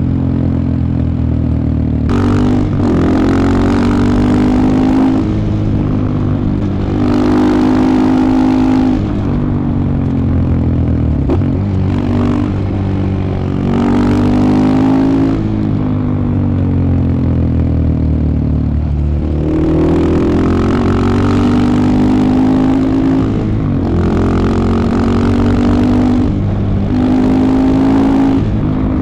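2015 KTM 690 Enduro R's single-cylinder engine running under way, its pitch repeatedly rising under acceleration and dropping back several times as the bike is ridden.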